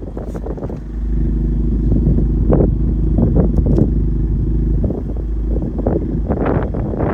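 Honda FL5 Civic Type R's turbocharged 2.0-litre four-cylinder running through an AWE Touring exhaust while driving, its exhaust note stepping up in loudness about a second in and holding strong.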